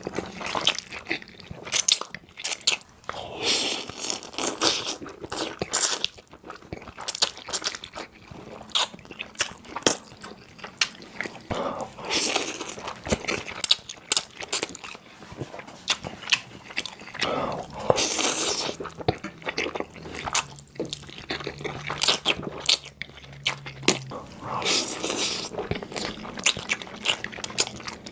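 Close-miked eating sounds of a person eating creamy pasta: wet, irregular bites, chewing and mouth smacks in quick succession.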